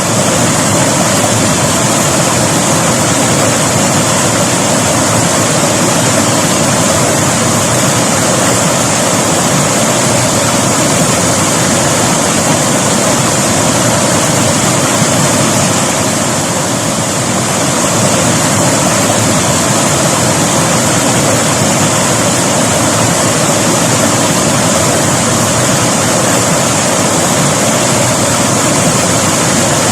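Steady rush of a river flowing over rocks, an even water noise without breaks.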